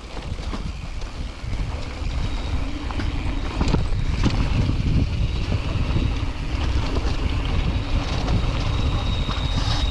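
Wind buffeting the microphone of a camera on a moving mountain bike, a loud, uneven low rumble with scattered knocks from the bike rolling over the ground. A faint thin whine comes and goes, clearest near the end.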